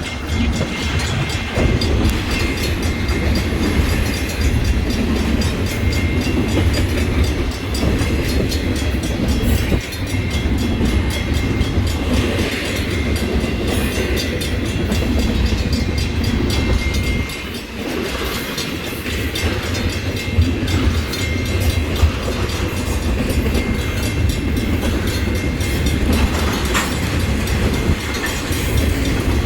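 A train's cars rolling past close by, a steady heavy rumble from the wheels on the rails with a faint thin high ring over it.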